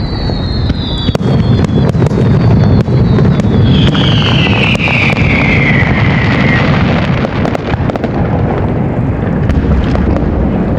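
Fireworks display: several sharp bangs of bursting shells over a continuous low rumble, with whistling tones falling in pitch, the loudest about four to six and a half seconds in.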